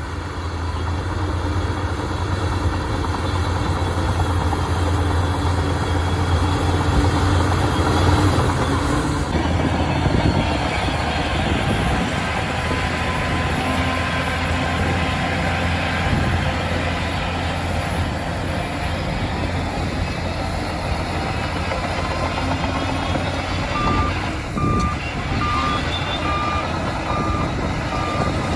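Shantui bulldozer's diesel engine running hard, its deep note shifting about nine seconds in. Near the end a reversing alarm beeps steadily.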